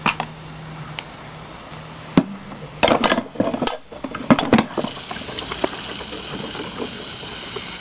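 A few sharp knocks and clatters of objects being handled, about two and three to five seconds in, over a faint hiss, with a low steady hum for the first two seconds.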